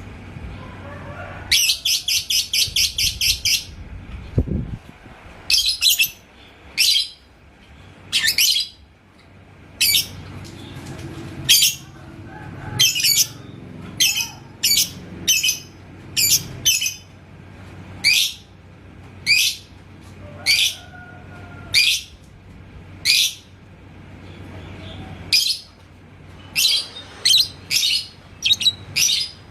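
Lovebird calling: a quick run of high chirps about two seconds in, then single sharp high chirps roughly once a second.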